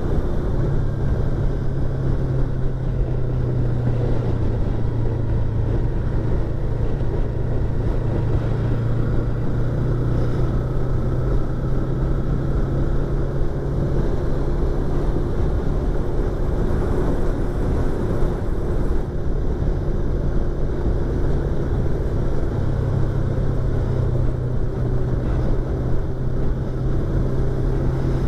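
Yamaha YZF-R25's 250 cc parallel-twin engine and exhaust running at a nearly steady pitch while riding, heard through a microphone inside the rider's helmet.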